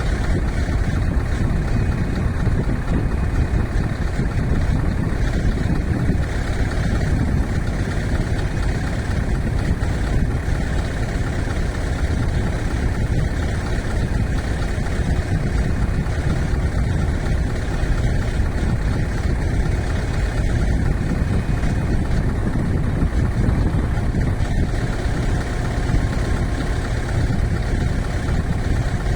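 Scania V8 truck's diesel engine running steadily, a deep even rumble with no change in revs.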